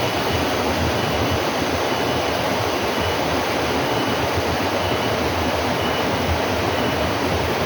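Steady, even rushing noise with no breaks, and a faint, broken high tone.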